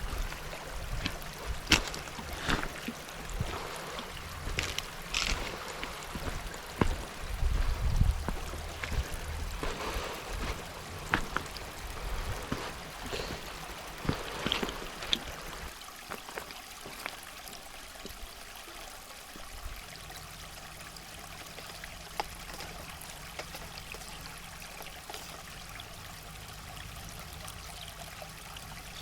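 Flowing river water, a steady rushing trickle. In the first half it is mixed with irregular clicks and low thumps, which then fall away to leave the even sound of the water.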